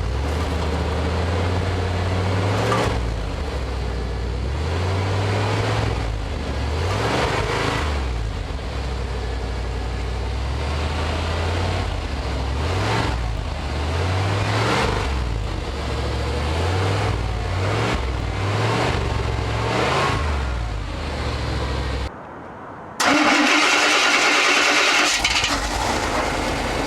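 Chevrolet 350 (5.7 L) TBI small-block V8 running through a Walker SoundFit muffler, its pitch rising and falling back over and over as the throttle is blipped. Near the end the sound drops out briefly and comes back louder and hissier.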